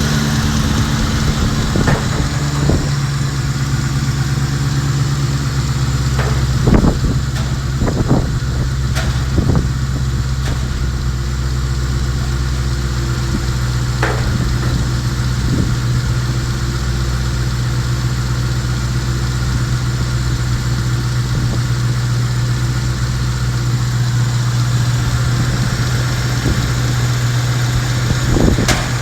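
Nissan VK45 4.5-litre V8 engine idling steadily, with a few brief throttle blips that rise and fall in pitch, most between about seven and ten seconds in and one near the end.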